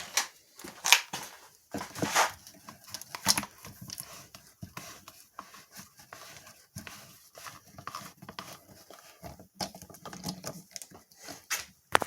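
Irregular knocks, clicks and rustling of objects being handled and moved about on a workbench.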